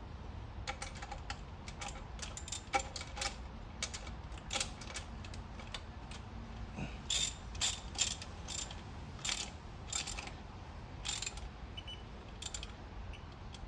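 Hand ratchet clicking in short, irregular runs of strokes as a bolt of the lower intake plenum manifold on a 3.8 L V6 is run down.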